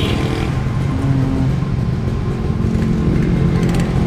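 Vehicle engines running steadily at idle, a continuous low hum with no change in speed.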